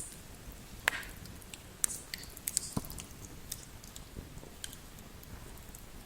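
Wood fire in a fireplace crackling: irregular sharp pops and snaps over a low steady hiss, with the loudest pops about one and two seconds in.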